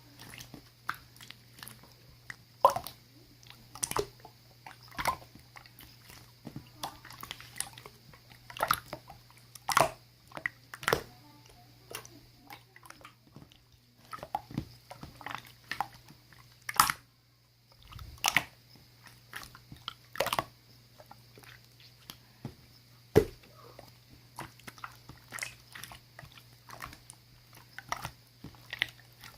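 Mint-coloured clear slime being squeezed, stretched and folded by hand, making irregular sticky pops and clicks, several a second, with a few sharper, louder pops.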